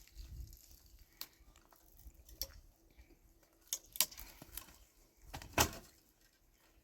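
A few scattered sharp clicks and knocks at irregular intervals, the loudest a little past five seconds in.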